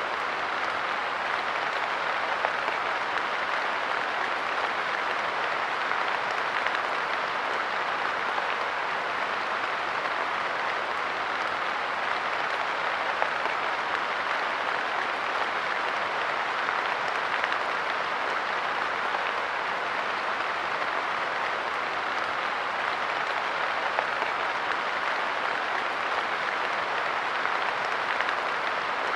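Steady light rain pattering on a park bench: a dense, even crackle of drops with no pauses.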